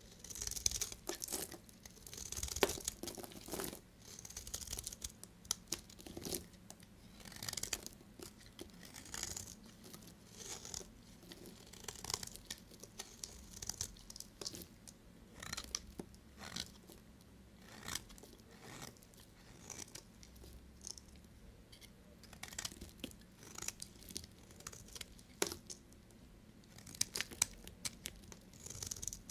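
Knife blade cutting through bars of soap in a series of short strokes, each a crisp, crackly crunch, coming every second or two.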